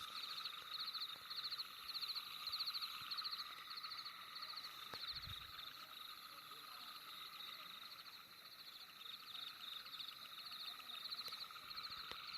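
Night chorus of calling frogs: rapid pulsed trills repeating about twice a second, layered over a steady high-pitched chorus.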